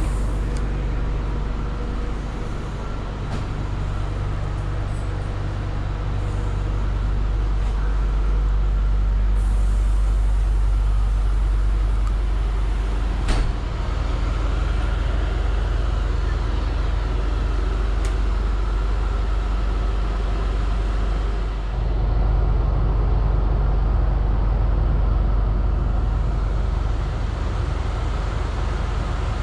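Loco-hauled Intercity passenger train running, a steady low rumble with a continuous hum, and one sharp click about thirteen seconds in.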